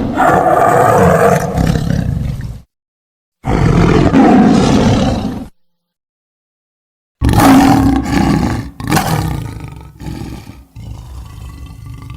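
Giant-alligator monster roar sound effects: three separate loud, rough roars with dead silence between them. The last roar is the longest, breaking up and fading near the end.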